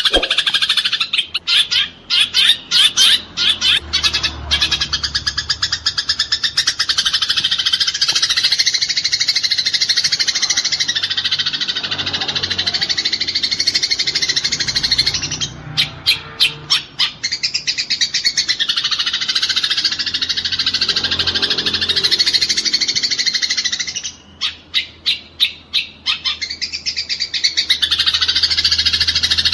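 Eurasian tree sparrows chattering in a dense, rapid stream of chirps, the agitated calling of sparrows fighting. Runs of separate sharp chirps break the stream a couple of seconds in, about halfway, and near the end.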